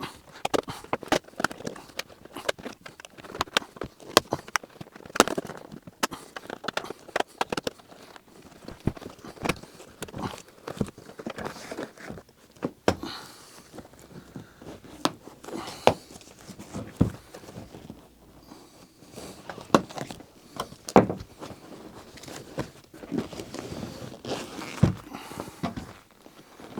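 A Mercedes C-Class seat cover being pulled off around the seat by hand: irregular sharp clicks and snaps as its edges come free, with the rustle of the cover material.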